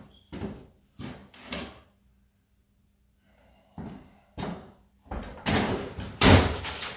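Heavy wooden cabinet being banged and knocked apart: three sharp knocks, a pause, then two more knocks and a louder run of crashes from about five seconds in.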